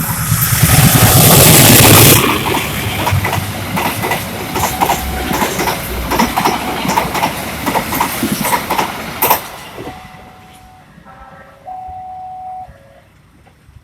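Passenger train passing at speed: a loud rush as the locomotive goes by in the first two seconds, then the carriage wheels clattering over the rail joints for about seven more seconds before fading away. A short steady tone sounds near the end.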